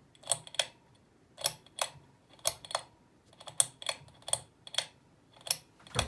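Plastic control buttons clicking, each press and release about once a second, about six times in all, as the ceiling fan's light is stepped through its settings.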